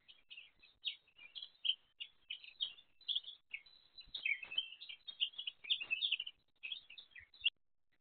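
A songbird chirping and twittering in a fast, unbroken stream of short high notes, starting suddenly and cutting off abruptly about seven and a half seconds in.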